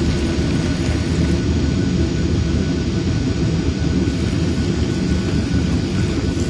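Steady loud roar of aircraft and de-icing machinery, with a faint high whine held on one note.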